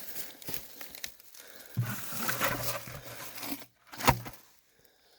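Rustling and crunching noise, with a low steady hum for a couple of seconds in the middle and a single sharp knock about four seconds in.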